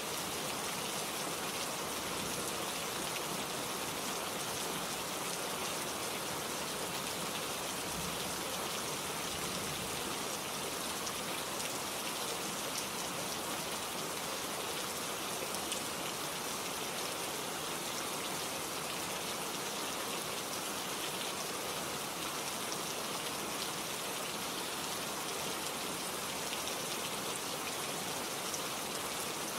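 Steady rain falling, an even patter of drops on leaves and other surfaces.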